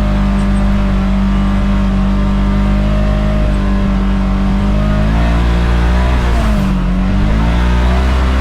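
Side-by-side UTV engine running steadily while riding, its pitch shifting about five seconds in, dipping and then climbing again near the end.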